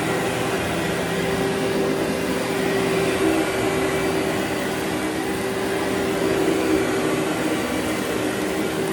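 Vacuum cleaner running steadily over carpet, a constant motor drone with a steady whine.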